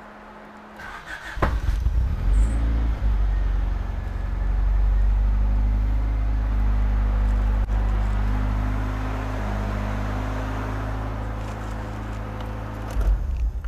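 1989 Honda Prelude 2.0 Si's four-cylinder engine cranked by the starter, catching within a couple of seconds and running steadily on its first start after being put back together. It stops suddenly near the end.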